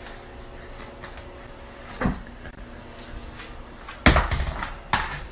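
A faint steady hum, a short knock about two seconds in, then a loud bang with a brief clatter about four seconds in and another knock just before the end.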